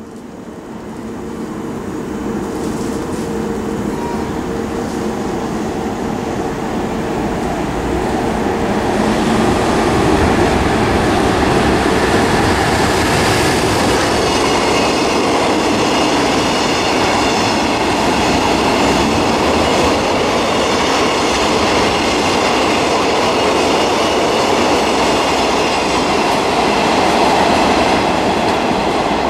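JR Freight EF210 electric locomotive hauling a freight train of oil tank wagons, growing louder over about the first ten seconds as it approaches, then the steady rumble of the locomotive and tank wagons rolling past on the rails.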